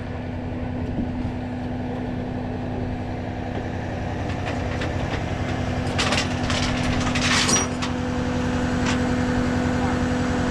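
Rollback tow truck's engine running under load with a steady hydraulic whine as the winch works the cable. A few clinks and a metallic rattle come about six to seven and a half seconds in.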